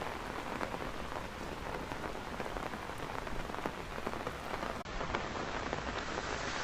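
Steady rain falling, with many separate drop hits close to the microphone.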